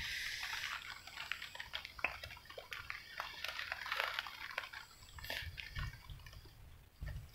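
Rain falling on the river and the boat: an irregular patter of raindrops, soft ticks and drips.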